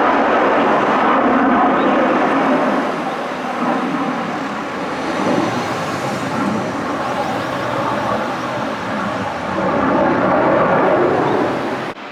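Loud jet noise from a US Air Force F-15 fighter flying overhead, rising and falling in strength and dropping off suddenly near the end.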